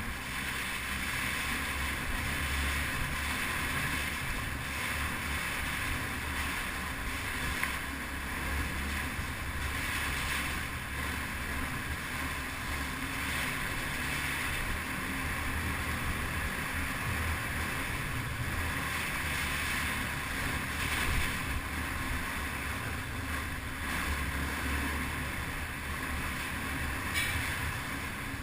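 Yamaha TT-R250 dirt bike's single-cylinder engine running steadily while riding, under wind noise on the microphone.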